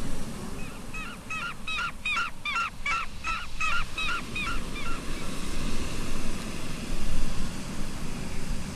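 A seabird calling a fast run of short rising-and-falling notes, about three a second, lasting some four seconds, over a low rumble of wind on the microphone.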